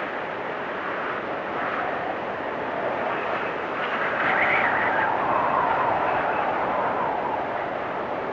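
Blizzard wind blowing steadily. A gust swells about four seconds in, with a whistle that drops in pitch as it eases.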